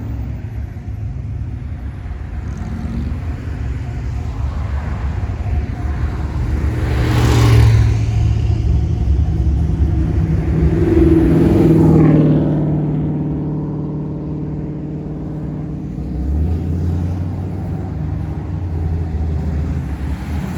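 Classic car engines running as the cars cruise slowly past one after another, with a steady low hum throughout. It swells as cars go by close, loudest about seven seconds in and again about twelve seconds in.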